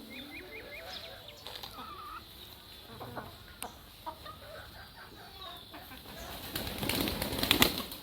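Chickens clucking and small birds calling around a farmyard. Near the end comes a louder flurry of wing-flapping.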